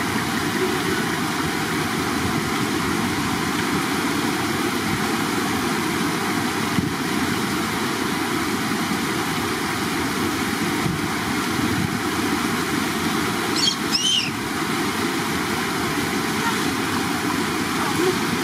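Running water flowing steadily, with a couple of short high chirps about three-quarters of the way through.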